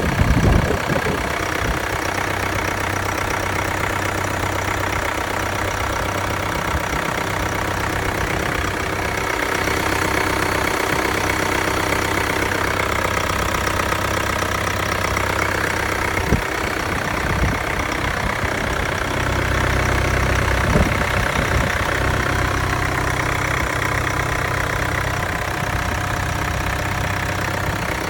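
Mercedes-Benz GLA 200 d's 2143cc four-cylinder turbo diesel engine idling steadily, with the usual diesel clatter. A single sharp click sounds about 16 seconds in.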